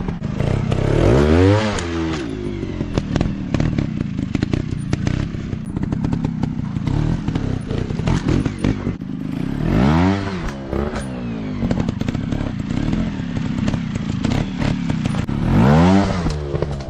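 Off-road dirt bike engine running rough and uneven, revved up and dropped back three times, each rev rising and falling over about a second. Many sharp clicks and knocks run through it.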